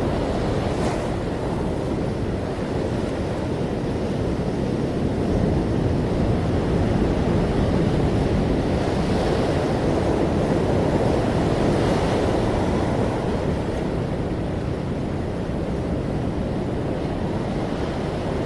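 Ocean waves breaking and washing on a shore in a steady rumble, swelling and easing slowly, with a few brighter washes of surf.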